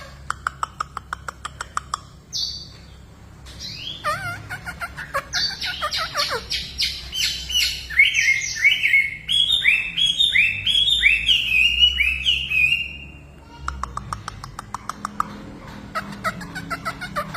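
Hwamei (melodious laughingthrush) singing in full, varied song: a fast run of clicking notes, a held high whistle, then long runs of repeated slurred whistles, with quick ticking notes returning near the end.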